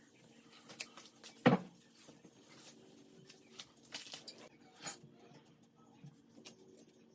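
Kitchen handling sounds: light clicks and taps of utensils and dishware, with one sharper knock about a second and a half in and another near the five-second mark, over a faint steady hum.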